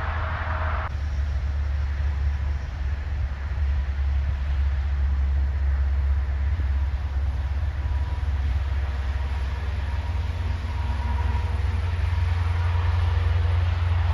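Heavy truck engine rumbling steadily and deeply, with faint engine tones coming through in the second half.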